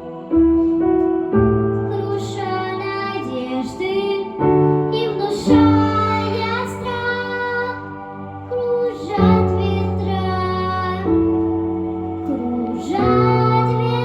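Children singing a melodic song over instrumental accompaniment, with sung notes held for a second or two each.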